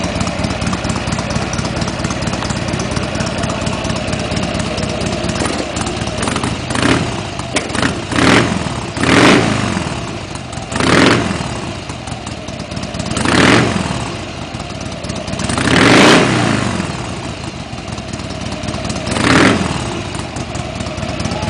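Motorcycle engine on its stock mufflers idling, then revved in about seven short throttle blips that each rise and fall back to idle.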